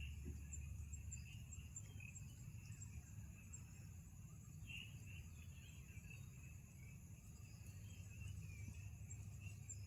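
Faint, steady insect chorus with high chirping, over a low rumble.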